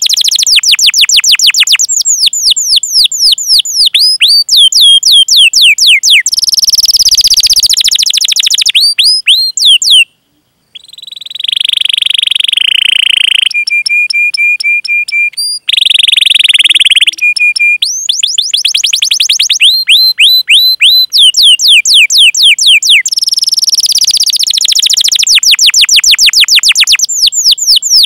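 Canary singing a long song of fast, evenly repeated down-slurred 'cuit cuit' chirps and rapid rolls, broken once by a short pause about ten seconds in, with a steady low trill in the middle.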